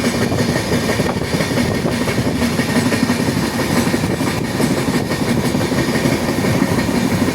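Train running along the rails at speed: a steady, loud rumble of wheels on track with clickety-clack over the rail joints.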